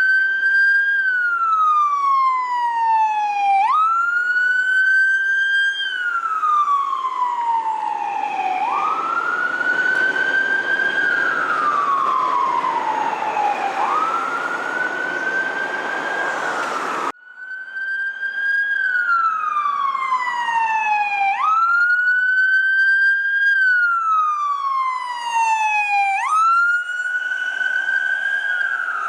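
Emergency vehicle's electronic siren sounding a wail: each cycle jumps up quickly in pitch and slides slowly back down, repeating about every five seconds. Engine and road noise swell under it around the middle, and the sound breaks off abruptly a little past halfway before the wail resumes.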